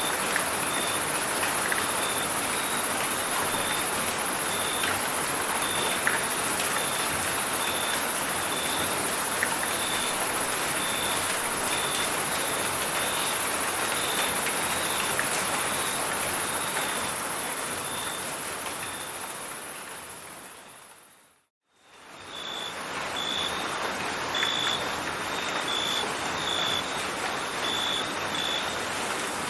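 Steady rain with crickets chirping in short pulses about once a second over a high, steady hiss. About twenty seconds in, it all fades out to a moment of silence, then fades back in without the high hiss.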